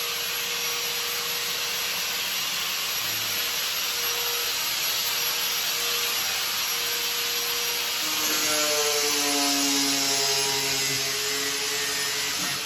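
A handheld power tool running with a steady whine over a gritty grinding hiss. About eight seconds in, its pitch wavers and the sound gets a little louder.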